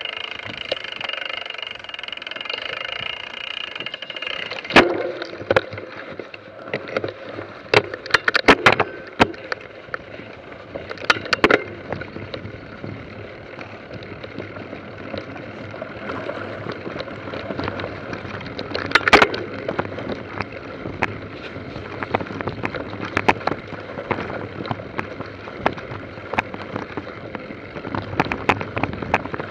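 Bicycle rolling over a rough trail: continuous rolling noise with frequent rattles and sharp knocks. A steady whine sounds for the first four seconds.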